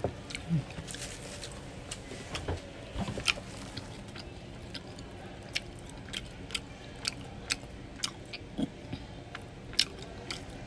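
Close-up chewing of a mouthful of Big Mac: short wet mouth clicks and smacks, irregular at first and then about two a second in the second half.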